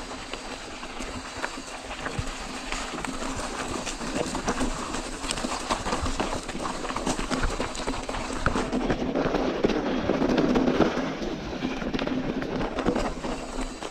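Mountain bike rolling over a rough dirt trail: tyres crunching and the bike rattling with dense clicks, louder about nine to eleven seconds in.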